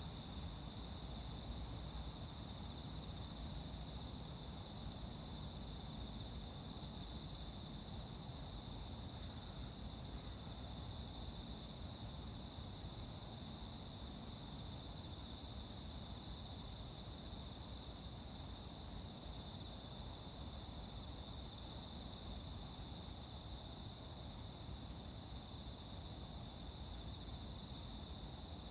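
A steady chorus of insects trilling without a break, in a high-pitched, unchanging tone, over a low, even background rumble.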